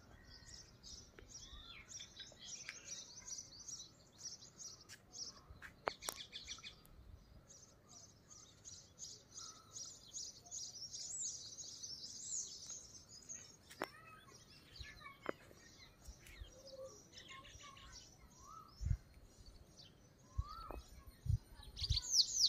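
Small birds chirping and twittering together, a dense run of rapid high chirps with overlapping calls. There are a few short low knocks near the end.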